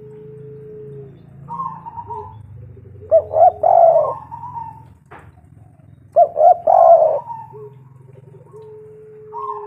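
Spotted dove cooing: two loud phrases of several coos, about three seconds apart, with softer drawn-out coos between them. A low hum runs underneath, and there is a single click between the two phrases.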